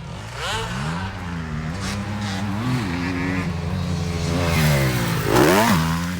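Motocross bike engine being ridden hard, revving up and down with the throttle. There are sharp rises in revs about half a second in, near the middle and again near the end, where it is loudest.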